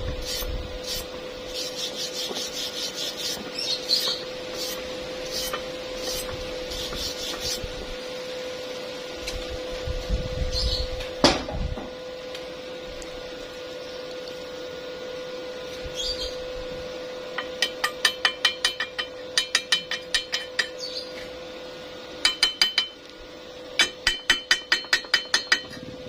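Hand tools working metal: a series of scraping strokes, a single sharp knock, then runs of quick light taps, about five a second. A steady hum runs underneath.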